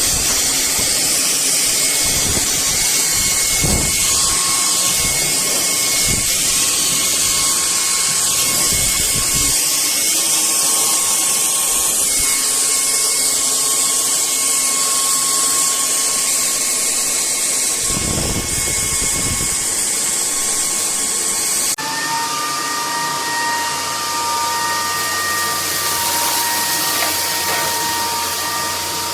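Bulelink 580 W cordless stick vacuum running, a steady high motor whine over airflow hiss, with a few knocks of the head in the first half. About 22 seconds in, the whine abruptly changes to a lower pitch.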